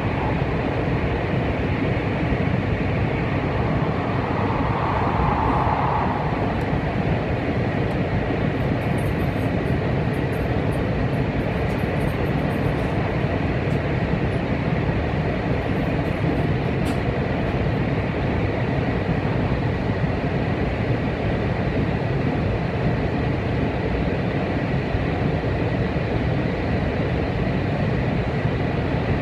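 Steady running noise inside a Sanyo Shinkansen Kodama train travelling at speed: an even low rumble of wheels on rail and rushing air, with a brief rise in the mid tones about five seconds in.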